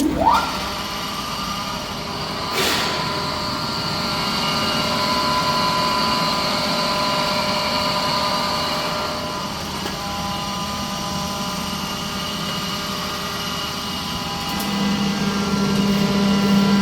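30 HP screw air compressor starting up. Its pitch rises at the very beginning, then it runs steadily with a whine of several fixed tones. There is one short sharp click about two and a half seconds in, and a deeper hum grows louder near the end.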